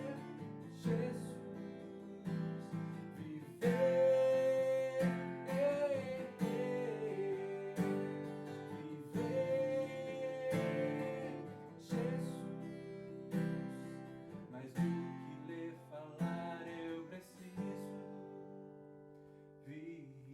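Acoustic guitar strummed in slow chords for a worship song, with held sung notes over it; it dies away near the end.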